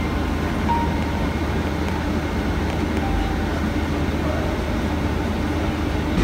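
Steady low rumble of cabin noise inside a Boeing 747-400 airliner.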